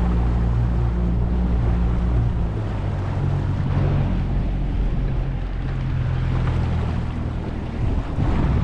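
A boat's motor running with a steady low hum that shifts pitch slightly a couple of times, over wind and water noise.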